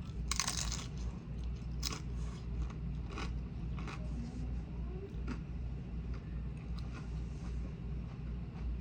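A person eating close to the microphone: a loud crunchy bite just after the start, then quieter chewing with small clicks.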